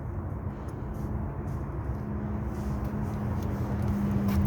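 A vehicle engine running steadily: a low rumble with a constant hum, growing slowly louder toward the end.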